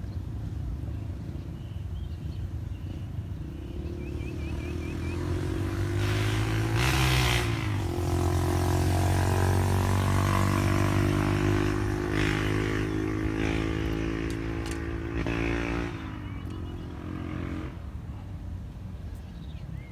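A small combustion engine running steadily as it comes close, stays loud for several seconds with a bend in pitch as it nears, then drops away and fades.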